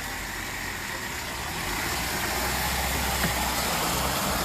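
A motor vehicle's engine running close by, with a low hum that comes in and grows louder about two seconds in, over a steady hiss.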